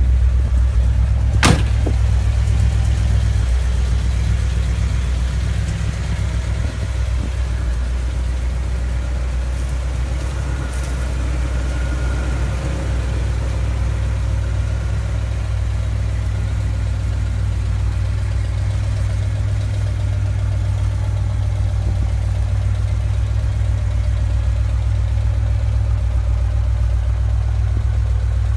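1972 Chevrolet Corvette's V8 idling steadily with a deep, even rumble. There is one sharp click about a second and a half in.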